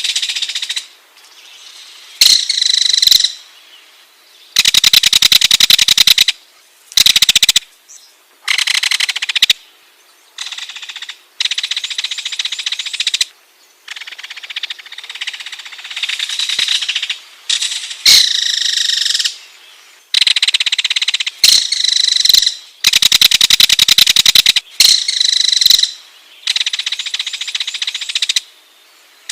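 Ringed kingfisher calling: a series of rapid rattling phrases, each about one to two seconds long, separated by short pauses.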